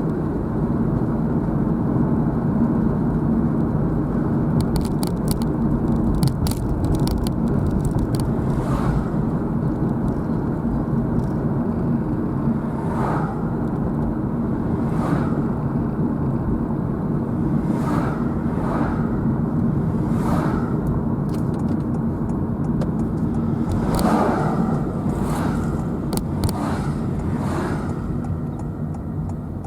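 Steady road noise of a car being driven: engine hum and tyre rumble, with a run of sharp clicks about five seconds in and several short swishes later on.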